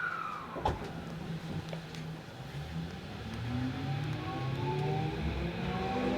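Tokyo Metro 16000-series subway train starting to accelerate from a stop: the VVVF inverter and traction motors give a whine of several tones rising together in small steps from about halfway through. A single knock comes about a second in.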